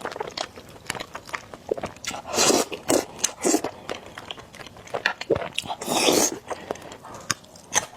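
Close-miked eating of noodles and eggs: chewing and biting with many small wet clicks, and several louder noisy mouthfuls about two and a half, three and a half and six seconds in.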